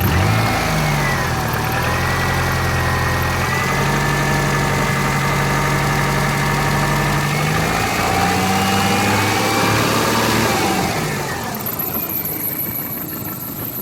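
2000 Subaru Forester's flat-four engine, still cold, brought up from idle and held at a steady raised speed, rising a little further about eight seconds in, then dropping back to idle near the end.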